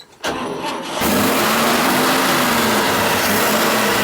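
A 1955 Chevrolet pickup's original 235 cubic-inch inline-six is cranked by the starter for under a second, then catches about a second in and runs steadily, its pitch swelling and settling a little. The engine has been freshly tuned with new plugs, wires and distributor.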